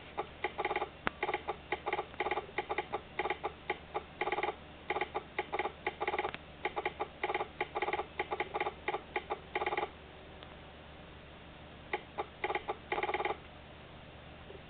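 A buzzing tone keyed on and off in quick short and longer pulses, like Morse code, breaking off for about two seconds near the end and then resuming briefly.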